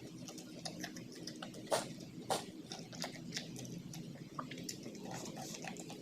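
A person eating: irregular wet smacks and small clicks of chewing and handling food, over a steady low background hum.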